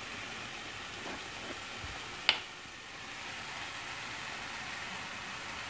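Diced bell peppers, onion and tomato sauce sizzling steadily in a frying pan, with a single sharp tap a little over two seconds in.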